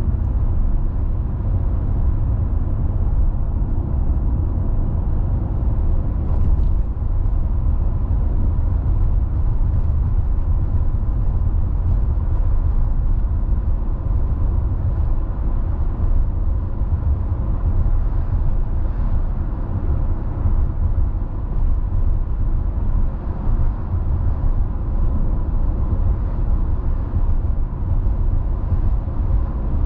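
Car driving at a steady speed: a constant low rumble of tyre and road noise with engine hum, unchanging throughout.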